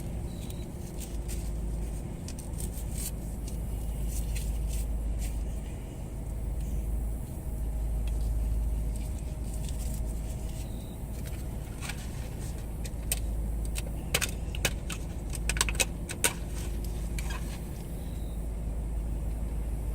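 Steady low rumble of a vehicle's engine and road noise heard inside the cab, with a cluster of sharp clicks and rattles from about twelve to seventeen seconds in.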